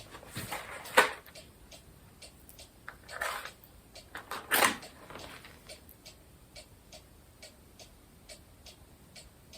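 A clock ticking steadily, a little over two ticks a second. A sharp click about a second in and a few louder rustles around the middle stand out above it.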